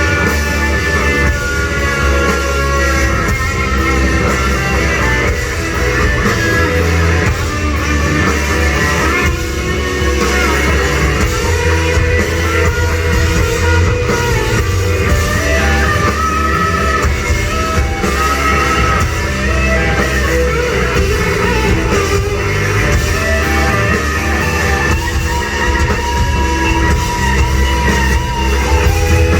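Rock band playing live: loud electric guitar lines over drums, with long held, bending notes.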